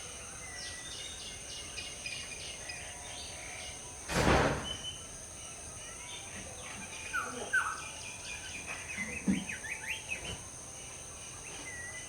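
Scattered chirps and short calls of wild tropical birds over a steady high insect drone, the calls busiest in the second half. About four seconds in, a brief loud rush of noise cuts across everything.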